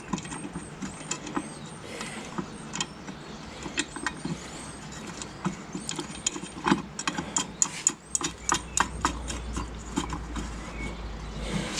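Irregular metallic clicks and knocks of a spanner working bolts on a tractor's brake assembly, with a low rumble joining in the last few seconds.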